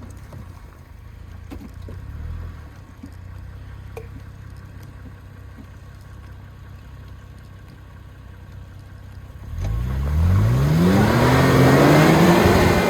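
Off-road 4x4's engine running low and steady, then revved hard about ten seconds in, its pitch climbing quickly and holding high under throttle as the vehicle pushes through the obstacle.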